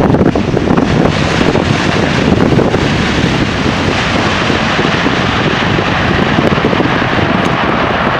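A jet airliner's engines rushing steadily, mixed with strong gusty wind buffeting the microphone.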